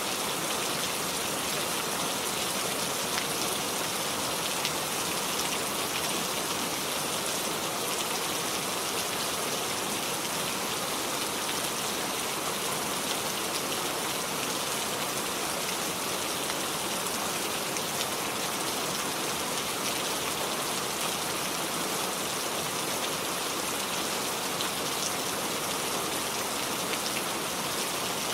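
Steady rain falling and pattering on surfaces, a dense even hiss with many individual drop ticks.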